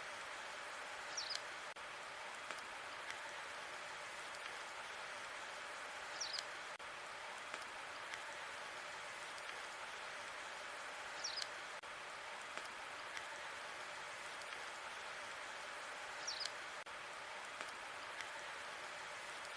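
Wood fire burning in a fireplace: a steady hiss with faint scattered crackles. A short, high snap stands out about every five seconds.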